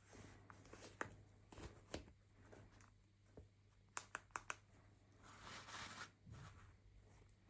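Hands handling small plastic toy pieces and packaging: a few sharp little clicks, then four in quick succession, followed by a brief rustle, over a faint low hum.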